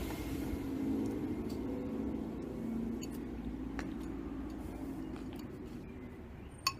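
A car's engine running steadily and slowly fading away as it moves off, with a few light clicks over it, the sharpest near the end.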